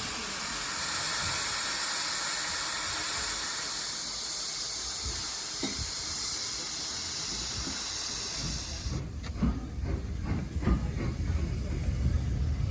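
An LB&SCR A1 Terrier steam tank locomotive hissing steam steadily, with the hiss cutting off suddenly about nine seconds in. Low rumbling and scattered knocks follow it.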